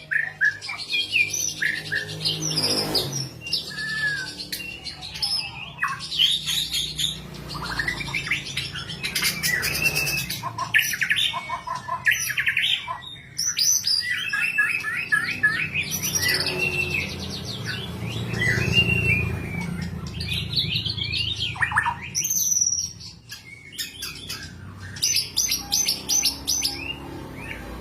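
White-rumped shama singing a long, varied song of sliding whistled phrases, chirps and fast rattling trills with hardly a pause, over a steady low hum.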